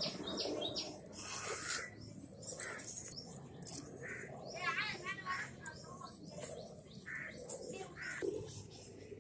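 Small birds chirping in short, high calls scattered throughout, with a quick trilled run of calls about five seconds in.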